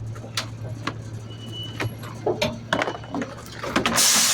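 Garbage truck engine running with a steady low hum, with scattered knocks and clanks. A loud burst of hiss comes near the end.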